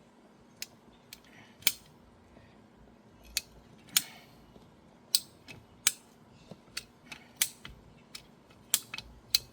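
A hand cutter working through plastic pipe: a dozen or so short, sharp clicks and snips at irregular intervals, squeezed a bit at a time.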